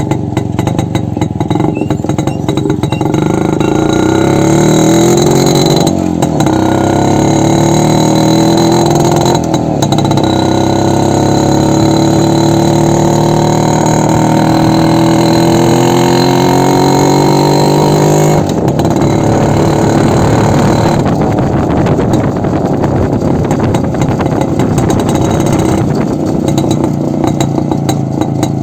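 Yezdi two-stroke motorcycle engine running with no muffler on its open exhaust. It is blipped up a couple of times, then held while its pitch climbs slowly for several seconds, before dropping back suddenly to an uneven idle about two-thirds of the way through.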